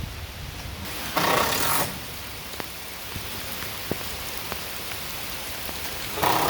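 Rain falling: a steady hiss with scattered sharp drop ticks, and two brief louder rushes of noise, about a second in and near the end.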